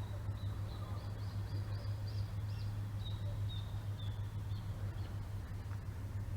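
A bird chirping a run of short, high notes, about two or three a second, over a steady low hum.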